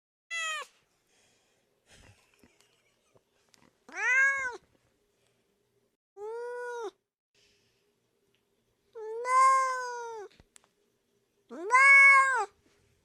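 A cat meowing five times, a few seconds apart, each meow rising and then falling in pitch; the last two are the loudest.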